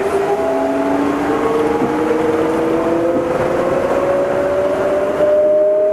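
Astram Line 7000 series rubber-tyred automated guideway train heard from inside the car while it runs, with a steady rolling noise. Over it, several motor whine tones rise slowly in pitch as the train gathers speed.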